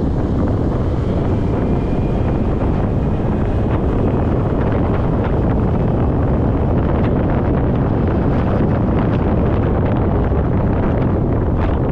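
Steady, loud wind rush buffeting a GoPro action camera's microphone on a moving motorcycle, with the motorcycle's engine running underneath.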